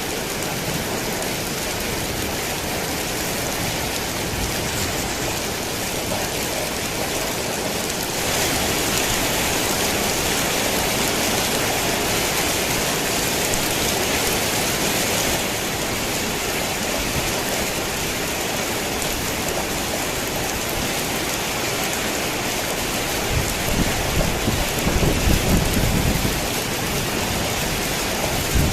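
Steady heavy rain on a tin roof, falling harder for several seconds about a third of the way in. Low thunder rumbles roll through a few seconds before the end.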